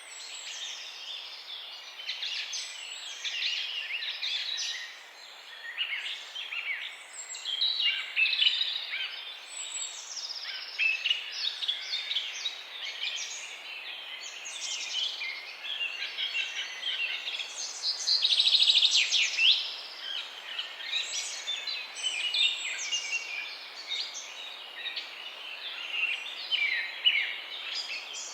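Many birds chirping and calling at once, a dense overlapping chorus of short high chirps and quick whistled sweeps over a faint steady hiss, with a louder trill about two-thirds of the way through.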